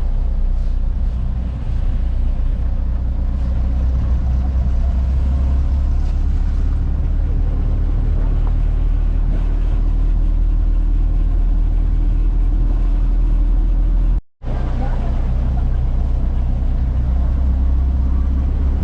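Steady low rumble of a motor vehicle on the move, broken by a brief cut to silence about 14 seconds in.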